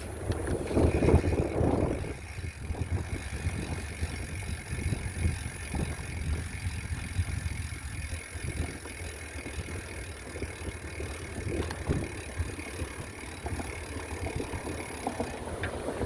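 Riding noise from a bicycle: low rumble and irregular rattling from the moving bike, with a louder rush of noise about a second in.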